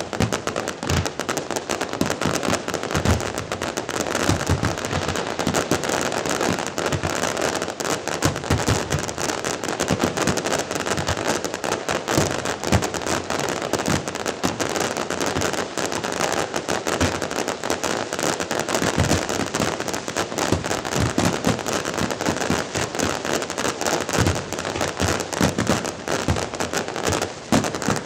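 Aerial fireworks going off continuously: a dense crackle of many small bursts with deeper booms mixed in.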